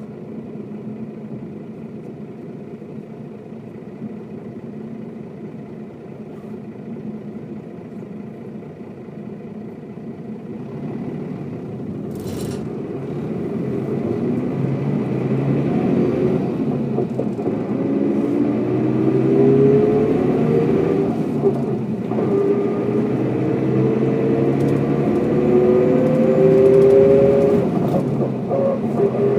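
Diesel engine of a Mercedes-Benz O407 bus, heard from inside the bus. It runs steadily at first, then pulls away and accelerates from about 11 seconds in. The engine pitch rises in steps and drops back at each gear change, around 21 and 28 seconds in. A short click is heard about 12 seconds in.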